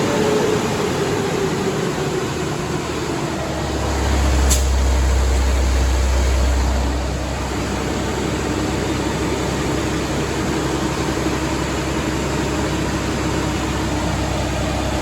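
Caterpillar C15 inline-six diesel in a Kenworth W900 running at low rpm on a dyno, shortly after start-up, smoking off oil slobber. Its note drops slightly at first, a deep rumble swells for about three seconds from around four seconds in, and there is one sharp click midway.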